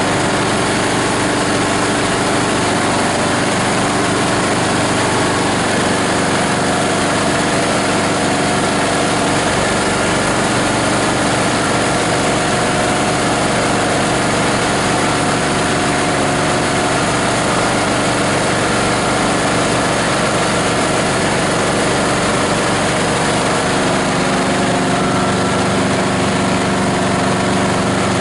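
Diesel engine of a multi-blade plastic grinder running steadily at a constant speed. The engine note shifts a little lower and fuller about four-fifths of the way through.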